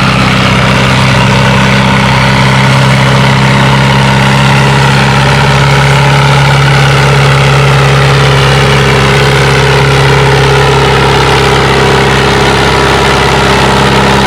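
Massey Harris 444 tractor engine running hard at a steady, held speed under load while pulling the weight-transfer sled.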